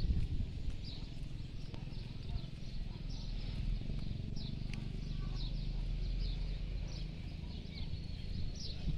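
Birds chirping outdoors: short, high chirps, about one or two a second, over a low steady rumble.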